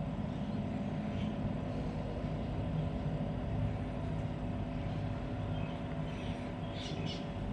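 Compressor of a 12 V portable fridge running steadily with a low hum, just after start-up on its economy setting.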